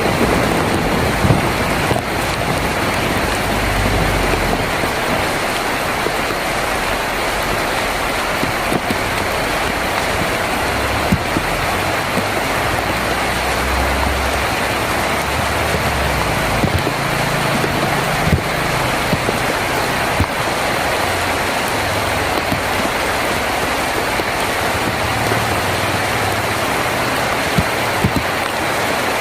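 Heavy rain drumming steadily on a tin roof, a dense hiss with scattered sharper drop impacts, and a low rumble coming and going underneath.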